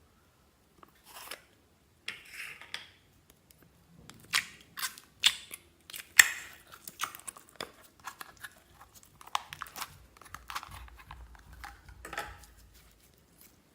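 Slime being squeezed and worked by hand, giving irregular sticky pops, clicks and crackles.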